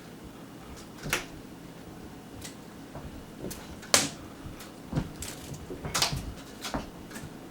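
Irregular clicks and thumps of cats playing, pouncing and scrabbling after a feather wand toy, with a sharp knock about four seconds in and a flurry of them a second later.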